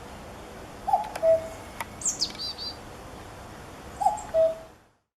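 Common cuckoo calling its two-note "cuck-oo", the second note lower and held, twice: about a second in and again near four seconds. High, thin falling chirps of another small bird come in between, and the sound cuts off just before the end.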